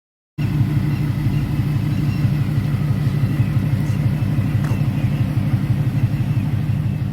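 1969 Chevrolet Chevelle's engine running steadily at a constant speed, a low rumble with a fast, even pulse. It cuts in suddenly less than half a second in.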